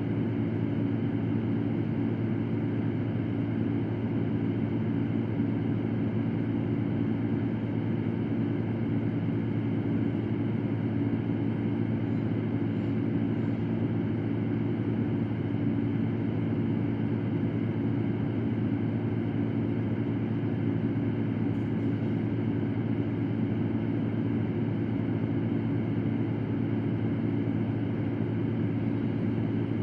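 Electric fan running steadily: an even rush of air over a low hum, unchanging throughout.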